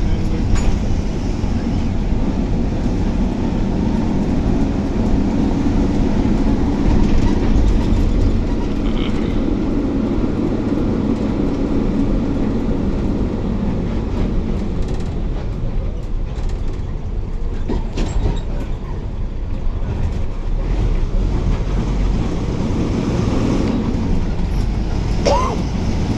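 Steady low rumble of a bus's engine and tyres, heard from inside the bus as it drives, with a brief tone that bends in pitch near the end.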